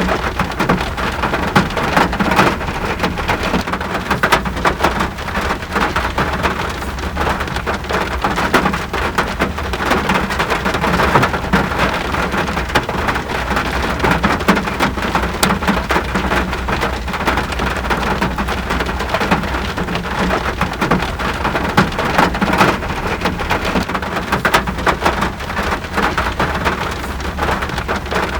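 Steady rain: a dense, even hiss with the patter of countless individual drops, over a constant low rumble.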